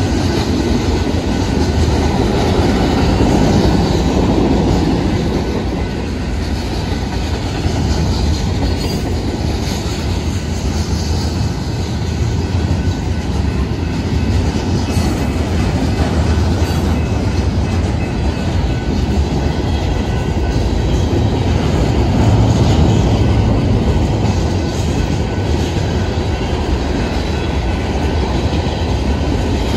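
Mixed freight train of covered hoppers, flatcars and tank cars rolling past: a steady rumble of steel wheels on the rails, with a heavy low end, that carries on without a break.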